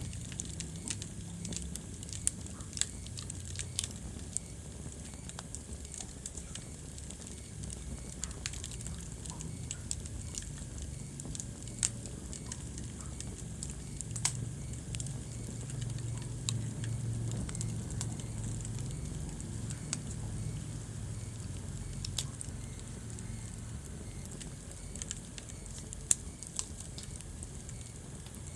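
Wood fire burning in a fireplace: a low steady rumble of the flames with frequent sharp crackles and pops, a few much louder snaps scattered through.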